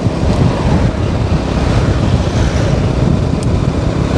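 Wind buffeting the camera microphone on a moving motorbike: a loud, uneven low rumble with a steady hiss above it.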